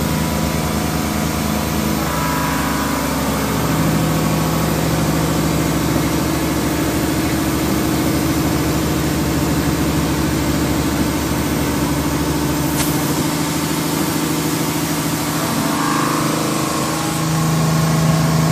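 Mazak VTC-30C CNC vertical machining center running, its axis drives moving the traveling column and spindle head. A steady electric machine hum whose tones shift several times as moves start and stop.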